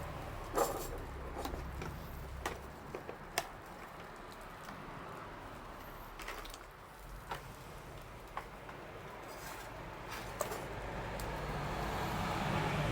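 Wood fire crackling: irregular sharp pops and snaps scattered through, over a low steady rumble that grows louder near the end.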